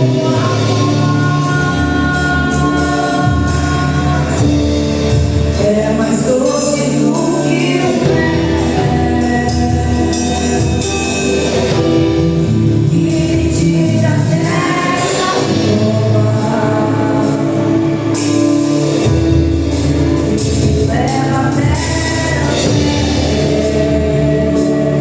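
Gospel worship song: singing over a full band with a steady bass line, loud and continuous.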